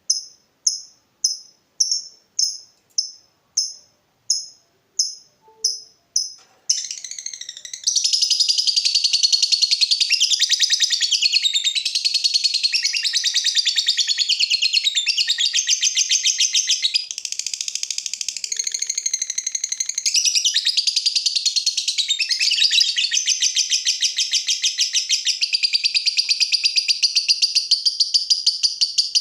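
Lovebird calling: short sharp chirps repeated about twice a second, then from about seven seconds in a long unbroken, rapid chattering trill (the ngekek of a lovebird in full song).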